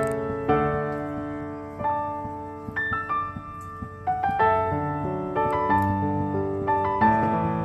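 Background music: a gentle piano melody with notes struck roughly every half second to second.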